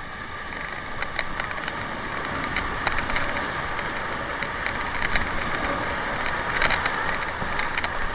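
Whitewater rushing around an inflatable raft in a river rapid: a steady wash of water noise with scattered splashes.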